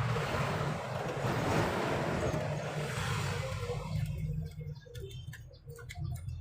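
Truck engine idling with a steady low rumble, a rushing noise over it that drops away about four seconds in, followed by a few light clicks.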